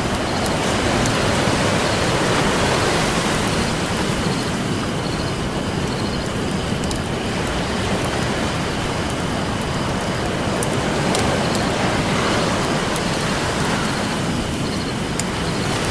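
Ocean waves washing on a beach, rising and falling slowly, mixed with a campfire crackling in sharp scattered pops.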